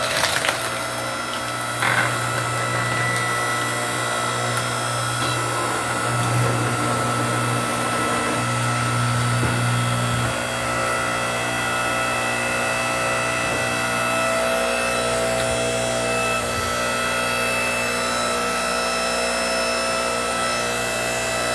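7-ton hydraulic log splitter running with a steady hum, with two sharp cracks near the start.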